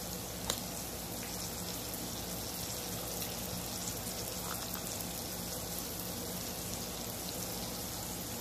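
Steady background hiss with a low hum under it, and a faint click about half a second in.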